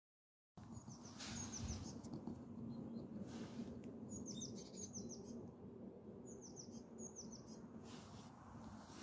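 A small bird calling: quick runs of short, high, falling chirps, repeated in several groups, over faint outdoor background noise.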